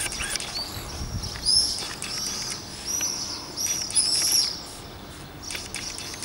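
Small birds chirping: a run of short, high, arching chirps repeated several times in quick succession, with a few faint ticks near the start and the end.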